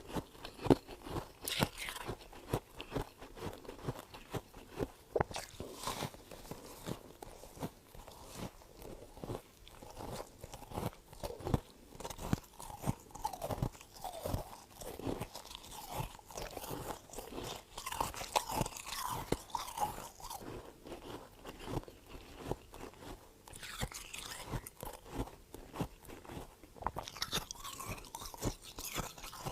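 Freezer frost being bitten and chewed, close up: a dense, irregular run of sharp crunches.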